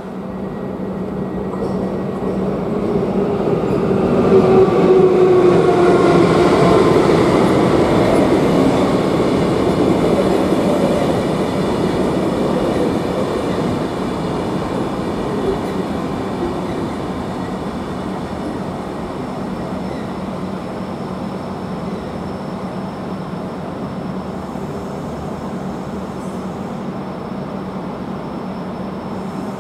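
Railjet express train pulling into a station: its electric traction whine glides down in pitch as it brakes, loudest a few seconds in, then settles to a steady hum and rumble as the train comes to a stand.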